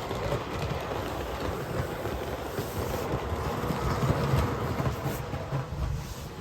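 Bachmann large-scale James the Red Engine model locomotive running along its track, pulling a wagon: a steady rattling rumble of motor and wheels, loudest about four seconds in.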